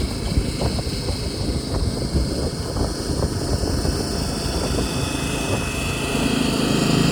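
Small tractor's engine running after a jump start, growing louder near the end.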